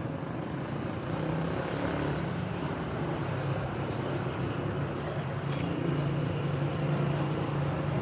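A motor vehicle engine running steadily with a low hum, over busy street noise.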